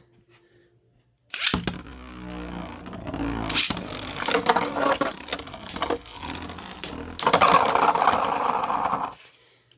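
Two 3D-printed Beyblade spinning tops launched into a stadium about a second and a half in, then spinning, scraping and clashing against each other with many sharp clicks. The noise grows denser near the end and stops abruptly about nine seconds in as the round ends.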